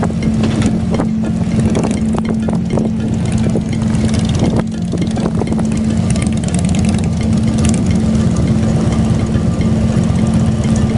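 Harley-Davidson motorcycle V-twin engine running steadily.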